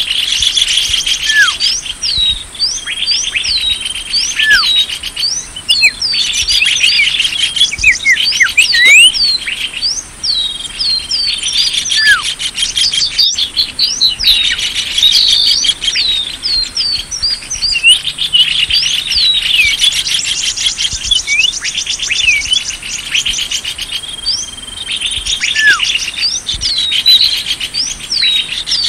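Bird-lure recording of many small songbirds chirping and twittering at once: dense, rapid high chirps and quick slurred whistles overlapping without a break, over a steady high buzz.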